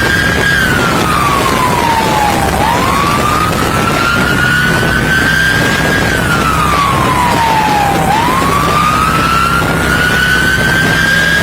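Police siren on a slow wail: a single tone climbs over about three seconds, then falls over about two, going through the cycle twice. A steady rush of wind and road noise runs beneath it.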